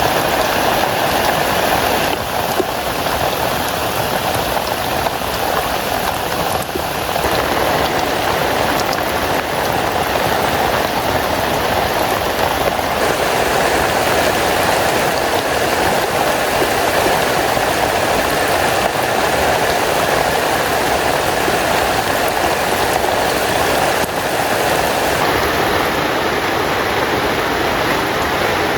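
Steady heavy rain falling on a small tent.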